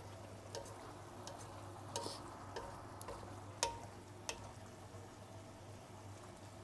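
A utensil stirring a stir-fry in a pan, with a few sharp taps against the pan (the loudest about three and a half seconds in) over a faint sizzle and a steady low hum.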